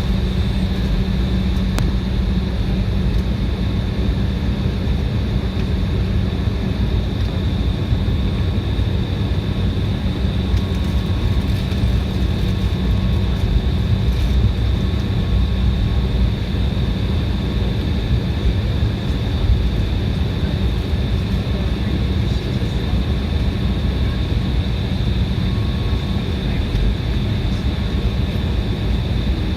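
Cabin noise of an Embraer 175 taxiing with its engines at idle: a steady low rumble with a constant high whine over it.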